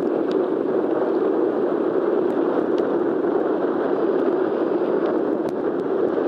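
Steady rushing noise of jet airliner engines, holding level throughout, with a few faint scattered ticks.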